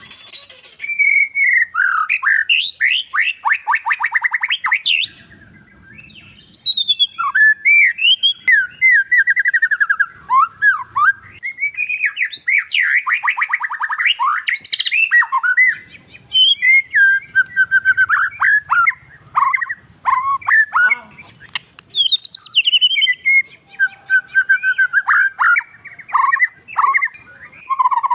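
Oriental magpie-robin (kacer) singing energetically in long, varied phrases: rapid trills and whistled notes sliding up and down, with only brief pauses.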